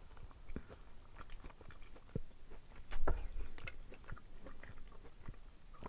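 Close-up chewing and biting of a mouthful of black bean noodles with ground meat and vegetables: a string of short wet mouth clicks and smacks, the loudest about three seconds in.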